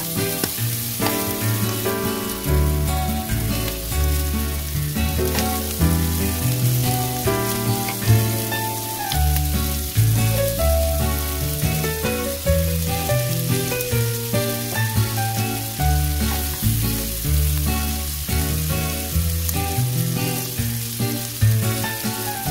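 Diced vegetables frying in oil in a nonstick wok, a steady sizzle while they are stirred with a metal spoon, under background music with a stepping bass line.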